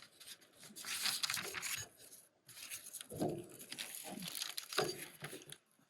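Crinkling and rustling of a sesame-seed package being handled, in several short bouts.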